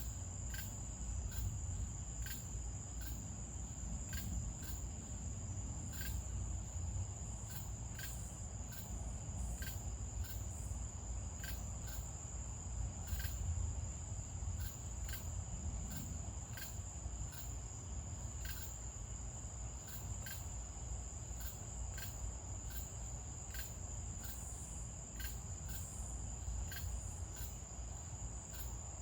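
Crickets at night: a steady high-pitched trill with short, evenly spaced chirps about twice a second, over a low rumble.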